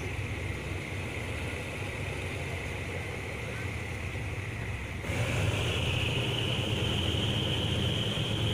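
Passenger train running along the track, heard from inside the coach by an open window: a steady low rumble of wheels on rail with a rushing hiss. About five seconds in the sound suddenly grows louder and the hiss rises higher.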